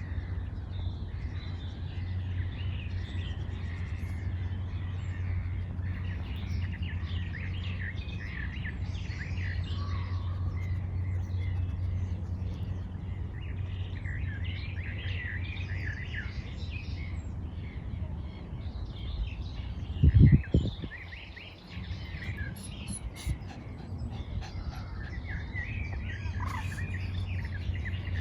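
Several birds chirping and singing in quick, overlapping calls over a steady low rumble. About twenty seconds in, a brief loud low thump.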